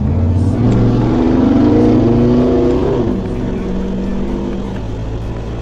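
Chevrolet 6.0-litre V8 swapped into a Toyota Land Cruiser hardtop, heard from inside the cab as it accelerates hard. The engine note climbs for about two seconds, then falls away about three seconds in and runs on at lower revs.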